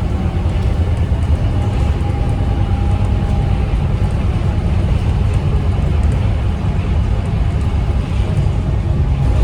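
Scania K230UB bus's 9-litre Scania DC9 diesel engine running with a steady low rumble, a faint whine rising over it briefly about two seconds in.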